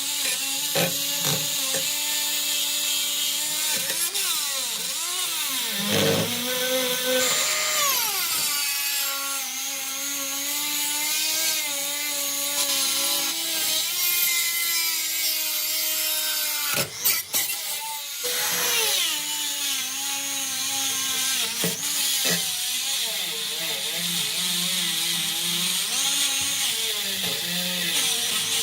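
Small handheld power tool running on metal, its motor pitch rising and falling as the load changes, with a brief stop about 17 seconds in.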